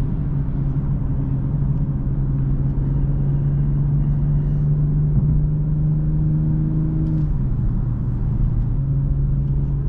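The B58 turbocharged inline-six of a BMW M240i xDrive, heard from inside the cabin while driving: a steady engine drone over road and tyre rumble. Its pitch creeps up slightly, then steps down about seven seconds in.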